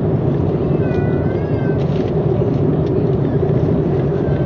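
Steady airliner cabin drone of engine and air noise. About a second in, a brief, thin, wavering high tone sounds over it.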